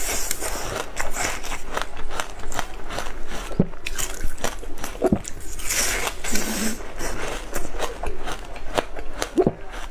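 Close-up biting and crunching of frozen passion fruit ice: a dense, irregular run of crisp cracks and crunches.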